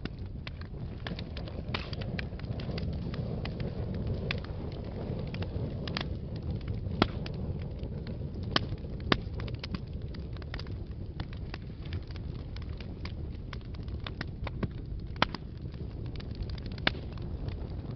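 Wood fire burning in a fireplace: a steady low rumble of flames with frequent crackles and pops, a few sharper pops standing out.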